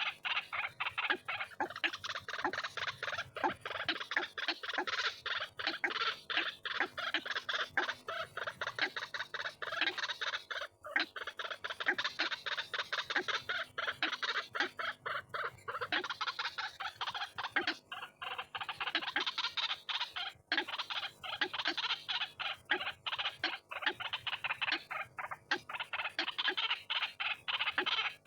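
White-breasted waterhen (ruak-ruak) calling: a dense, unbroken run of harsh, rapidly repeated croaking notes, many a second, with brief pauses about eleven and twenty seconds in.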